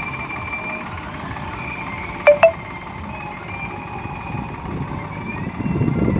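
Heavy vehicle engine running steadily, with two short, sharp loud clanks close together about two seconds in. Near the end the engine grows louder.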